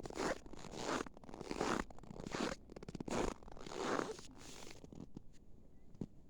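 Footsteps in cold, dry snow, each step creaking loudly underfoot at a steady walking pace. The steps stop about five seconds in.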